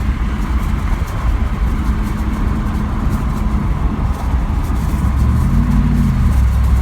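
A 1997 Camaro Z/28's LT1 V8 running on the move, a steady low rumble over road noise. Near the end the engine's pitch rises and falls once.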